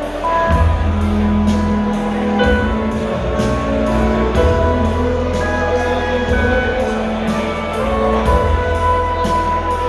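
Live rock band playing, with held instrument notes over a steady drum beat.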